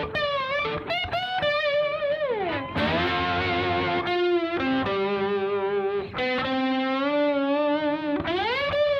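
Distorted electric guitar played with a glass slide: sustained notes with wide vibrato, a long slide down about two seconds in, and a slide back up near the end.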